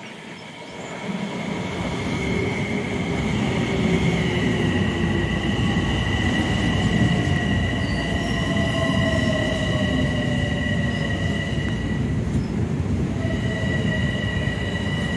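A Metro-North M7A electric multiple-unit train running past along the platform, its wheel and motor noise swelling over the first couple of seconds as it arrives. Two steady high-pitched whines sit over the rumble, with a lower tone falling slowly in pitch as the train slows.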